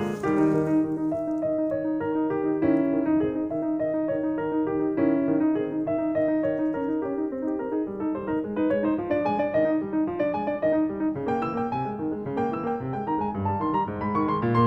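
Piano music: a steady run of notes over a held middle note, continuing without pause.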